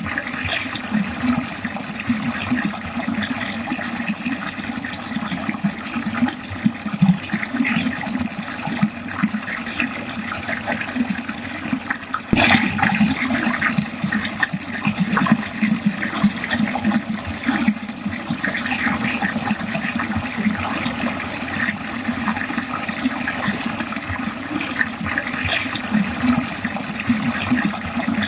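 Water running steadily down a drain, gurgling and splashing without pause. A single sharp click comes a little before halfway.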